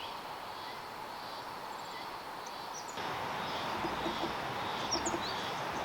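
Steady rush of river water with brief bird chirps over it; the rush gets louder about three seconds in.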